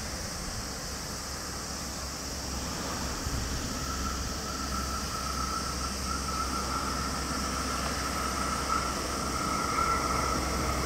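JR 117 series electric train approaching, its low rumble slowly growing louder. A steady high whine sets in about four seconds in and strengthens as the train nears.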